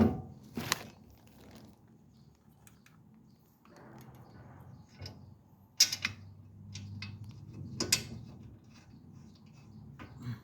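Scattered clicks and knocks of a brake caliper bracket bolt and tools being handled as the bolt is fitted by hand. The sharpest click comes about six seconds in, with another about two seconds later.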